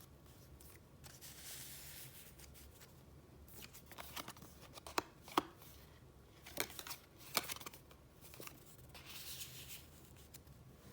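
Paper being handled and flipped. Soft rustling swishes come near the start and again near the end, with a handful of sharp, crisp taps and snaps in the middle.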